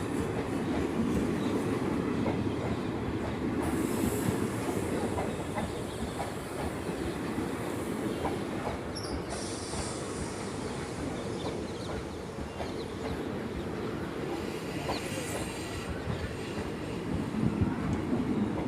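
Passenger express train's coaches rolling by with a steady rumble and clatter of wheels over the rail joints. High-pitched wheel squeals come and go several times.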